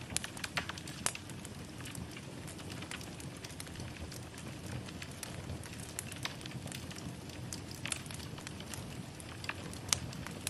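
Wood fire burning in a fireplace: a steady low hiss with irregular crackles and pops, one sharper pop near the end.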